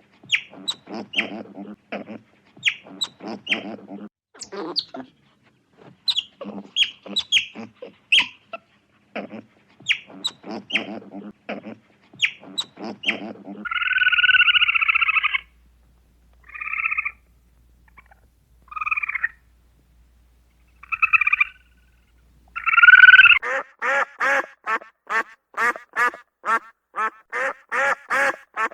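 Domestic waterfowl calling: short repeated calls at first, then a louder drawn-out call and a few separate short calls in the middle, then a fast run of quacks near the end.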